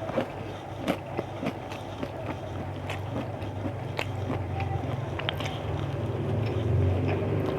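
A person chewing food close to the microphone, with frequent short wet clicks and smacks of the mouth. Under it a steady low hum grows louder toward the end.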